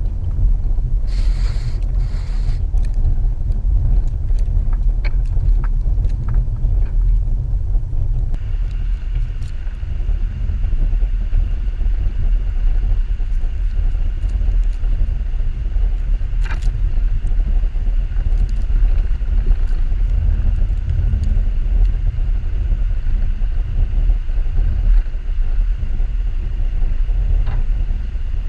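2014 Subaru XV Crosstrek driving off-road through snow: a steady low rumble, with scattered light knocks and one sharper knock about halfway through.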